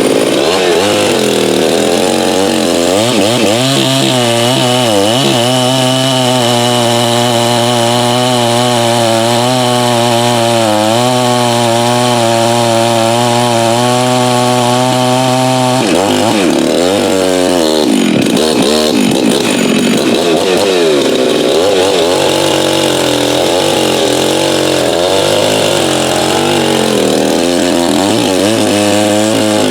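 Farmertec MS 660 clone two-stroke chainsaw with a 36-inch bar, running hard under load, as when cutting wood. The engine note holds steady for over ten seconds, then drops suddenly about halfway through and rises and falls for the rest.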